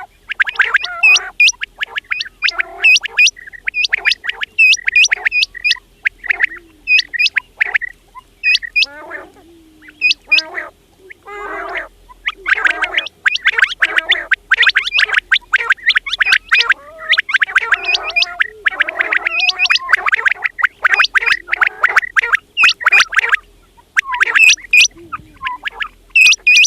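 Quails calling over and over: sharp, high calls repeated in quick runs, with thicker stretches of overlapping chattering calls from several birds in the middle.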